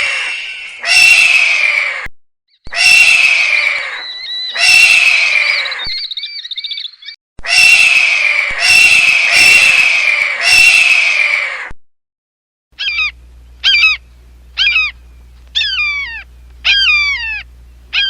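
Falcon calls: a run of harsh, drawn-out screams about a second apiece, each dropping in pitch. After a short pause, a series of quicker calls follows, each sliding down in pitch, over a low steady hum.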